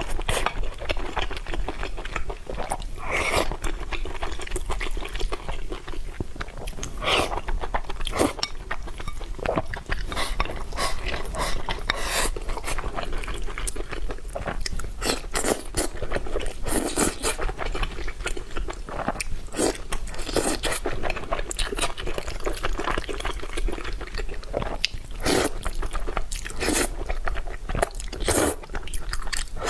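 A person chewing and biting food close to the microphone, with many sharp crunches and wet mouth sounds.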